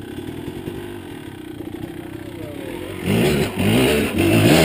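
Off-road vehicle's engine running steadily, then revving hard in surges about three seconds in as the driver gives it full throttle to push through the river crossing.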